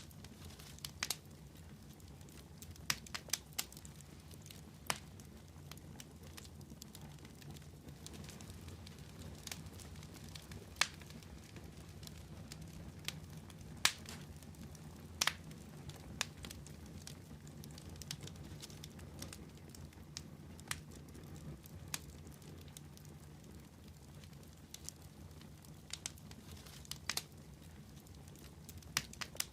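Fire crackling: irregular sharp pops and snaps, a few louder ones scattered throughout, over a low steady rumble.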